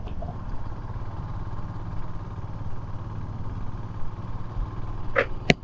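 Motorcycle engine running steadily with a low, even hum, and two short sharp knocks near the end.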